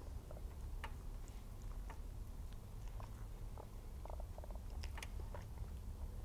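Close-miked chewing of a soft, pink-glazed cream puff: scattered small wet clicks and mouth smacks over a steady low hum.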